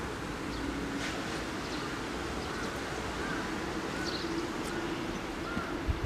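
Outdoor background rumble with a few short bird chirps scattered through it, and a faint steady low hum setting in about halfway through.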